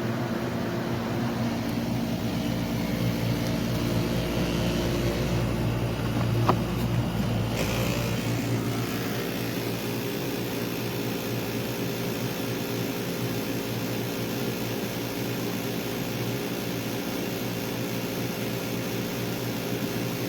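SereneLife 9000 BTU portable air conditioner running: a steady hum of several held tones over fan hiss. A brief click comes about six and a half seconds in, and the deepest rumble drops away a second or so later.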